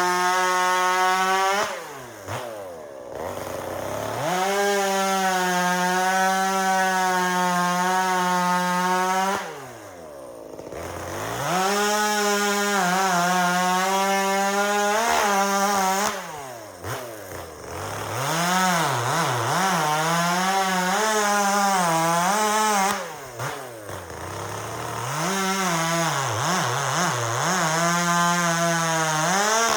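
Two-stroke chainsaw bucking firewood, held at full throttle through the cuts. Four times it drops to idle and then revs back up. In the middle cuts the engine note dips and wavers as the chain bogs in the wood.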